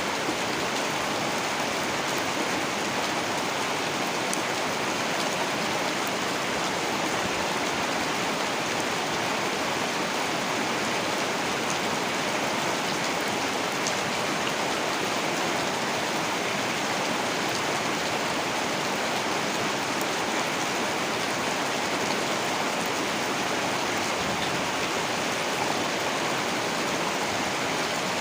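Heavy rain falling steadily, an even hiss with faint drop ticks.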